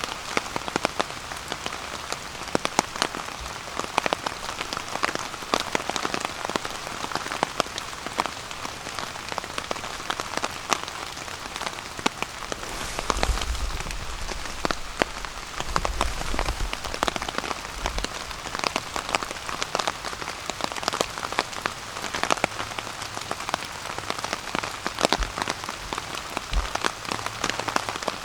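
Rain falling on a tarp overhead: a steady, dense patter, with sharper single drops landing throughout. A few low rumbles come in around the middle.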